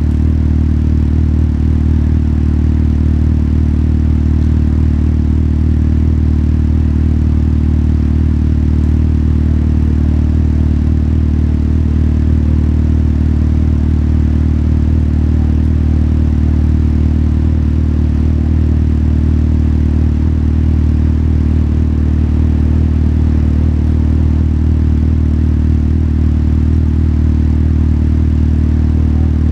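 Motorcycle engine running at a low, steady, unchanging pitch with no revving.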